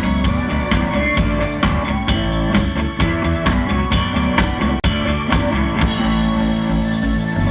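A rock band playing an instrumental passage after a count-in: drum kit keeping a steady beat under guitar and bass. There is a split-second break just under five seconds in, and cymbals wash over the last second and a half.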